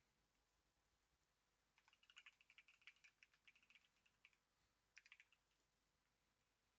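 Faint typing on a computer keyboard: a run of rapid keystrokes lasting about two and a half seconds, then a short second burst about five seconds in.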